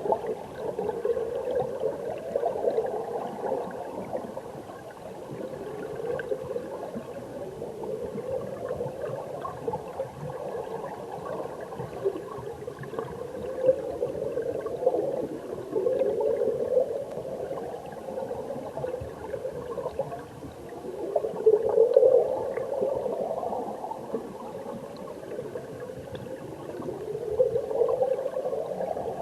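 Mountain stream current heard underwater: a muffled, bubbling rush of water that swells and eases in surges roughly every five seconds.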